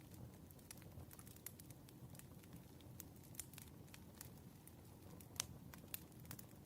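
Quiet campfire burning: a low, steady rumble of flame with frequent sharp crackles and pops from the burning wood, two of them louder near the end.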